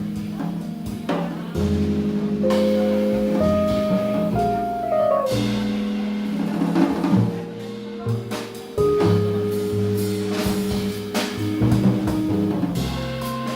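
Live instrumental ensemble music in a jazz vein: held and stepping melodic notes over low bass notes, with a drum kit playing steadily throughout. Piano is among the instruments.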